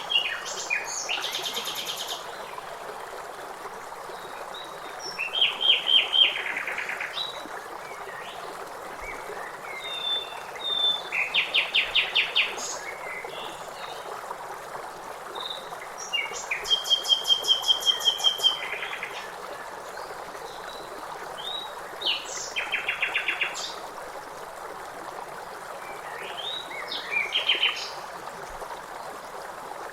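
Songbirds singing over the steady rush of a river. Several birds give short phrases of fast trills and chirps every few seconds, heard above the constant noise of the flowing water.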